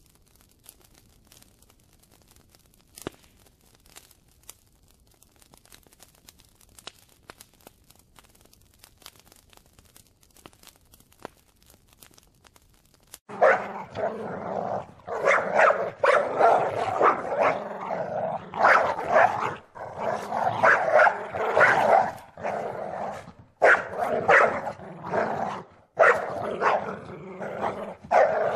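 A dog barking and growling in a rapid run of uneven bursts, starting about halfway through. Before it there are only faint scattered clicks.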